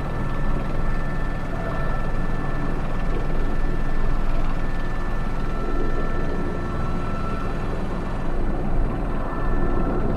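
Airbus H125 helicopter in steady flight: a continuous turbine whine of held high tones over the rotor and engine rumble.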